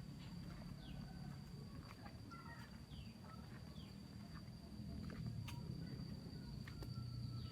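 Village outdoor ambience: an insect's steady high-pitched drone with scattered short, falling bird chirps and a few faint clicks.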